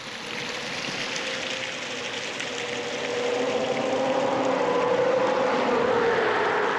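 Steady rush of hot spring water running down a mineral mound, with a highway vehicle's engine coming up over it from about halfway through, loudest near the end and dropping slightly in pitch as it passes.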